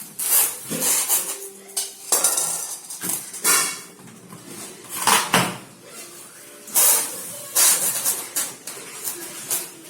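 Irregular clattering and rustling of hard objects being handled, a dozen or so sharp knocks and scrapes, with faint voices underneath.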